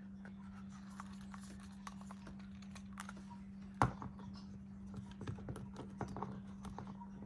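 Scattered light clicks and taps of a plastic action figure being handled, one sharper click about four seconds in, over a steady low electrical hum.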